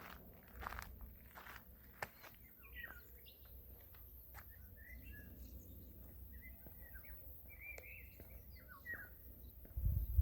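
Songbirds chirping and calling in short, scattered notes, faint against quiet outdoor background. A few footsteps sound in the first two seconds, and a low rumble starts near the end.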